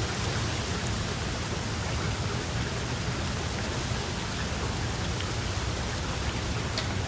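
Steady rain falling, an even hiss with a low rumble underneath and occasional individual drops ticking.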